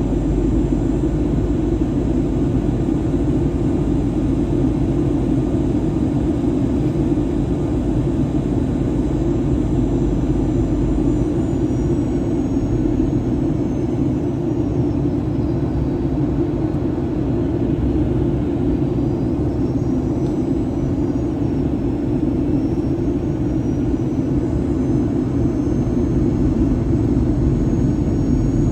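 Steady cabin noise inside a Boeing 737-800 in flight: a constant rumble of engines and airflow. A faint high engine whine slides down in pitch about halfway through and rises again a few seconds later.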